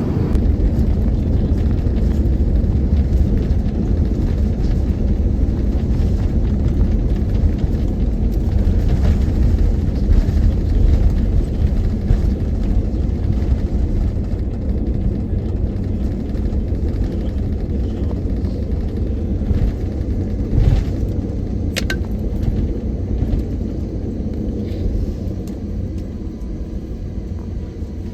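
Deep, steady rumble inside the cabin of an Airbus A350-900, easing off near the end. A single sharp click sounds a little past the middle.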